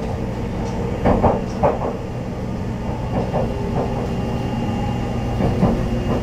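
JR Central HC85 series hybrid diesel-electric railcar running, heard from inside the vestibule deck: a steady low rumble with a faint steady whine, and a few sharp wheel clacks over rail joints about a second in.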